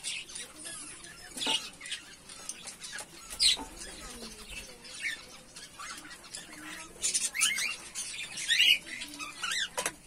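Cage birds chirping: short, high calls with sliding pitch, scattered at first, then coming thick and fast from about seven seconds in.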